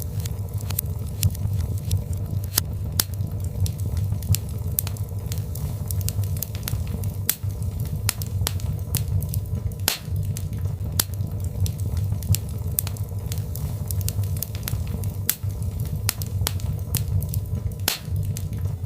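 Birchwood fire crackling in a fireplace: frequent sharp pops and snaps from the burning logs over a steady low rumble of the flames.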